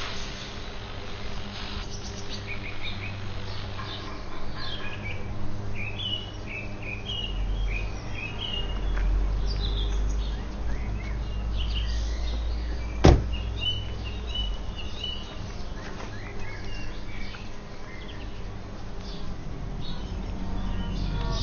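Small birds chirping and twittering over a steady low hum. A single sharp knock sounds about thirteen seconds in.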